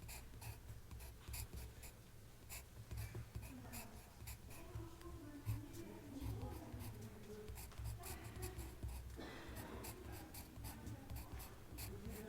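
Writing on paper in a quiet room: a stream of small scratches and ticks over a steady low rumble. Faint hushed voices murmur from a few seconds in.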